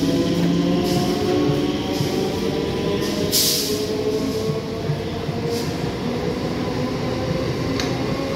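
Eastern Railway EMU suburban local train running past at a platform, with steady rail rumble and an electric motor whine that rises slowly in pitch as the train gathers speed. A brief hiss comes a little over three seconds in.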